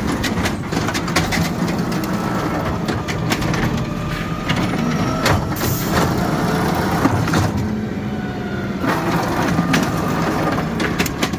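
CNG-powered automated side-loader garbage truck's arm picking up a trash can and tipping it into the hopper. Repeated knocks and clatter from the can and the falling trash sound over the running engine, with a faint whine.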